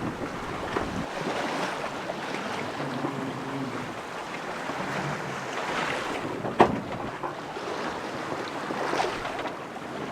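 Wind and waves rushing around a sailboat under sail, with a steady wash of noise and wind on the microphone. Small knocks come here and there, and one sharp knock, the loudest sound, comes about two-thirds of the way through.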